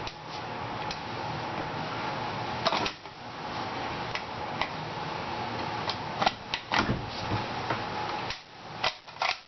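A few scattered metallic clicks from a Lee Enfield No.4 rifle's parts being handled during reassembly, over a steady background hiss.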